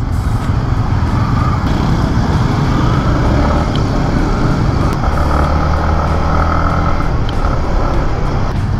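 Yamaha MT-15's 155 cc single-cylinder engine running steadily under way, heard from the rider's seat along with road noise.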